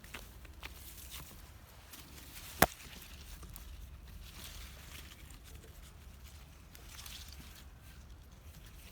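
Faint rustling and small ticks of tomato plants being handled during picking, with one sharp click about two and a half seconds in.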